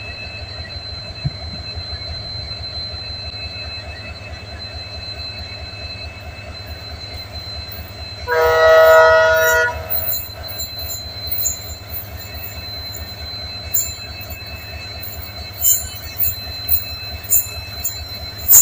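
Express passenger train running, heard from a coach doorway: a steady rumble of wheels on rail with a thin high squeal. About eight seconds in, a locomotive horn sounds loudly for about a second and a half. Toward the end, sharp metallic squeaks and clicks from the wheels come more and more often.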